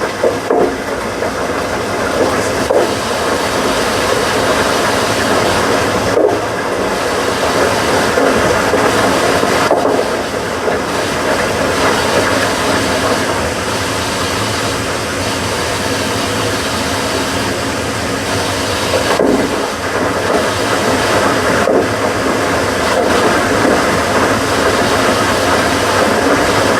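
Washing machines running: a steady, loud mechanical noise with a low hum underneath.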